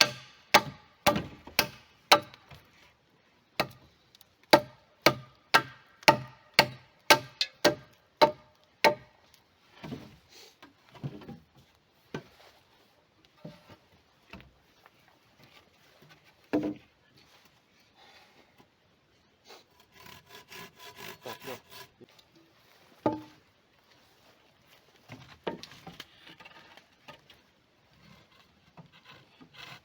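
Woodwork on a log cabin build. About fifteen sharp, ringing strikes on wood come at roughly two a second for the first nine seconds, followed by scattered knocks and a stretch of scraping about twenty seconds in.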